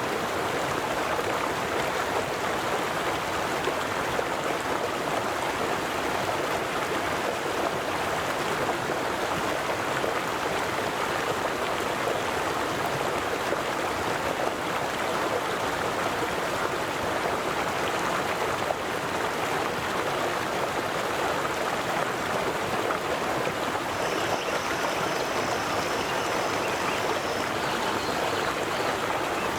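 River water flowing steadily, an even rushing with no breaks. A faint, thin high-pitched tone joins in near the end.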